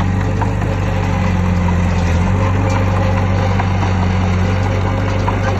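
Heavy diesel engine of an earthmoving machine running steadily, with a strong low hum and faint scattered clicks over it.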